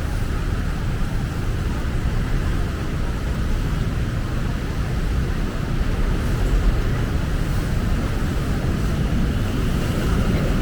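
Steady low rumble of city street traffic with an even hiss over it.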